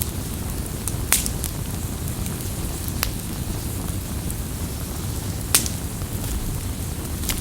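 Campfire burning: a steady low rush of flames with sharp crackles and pops, the loudest three about a second in, at three seconds and near five and a half seconds, between fainter ticks.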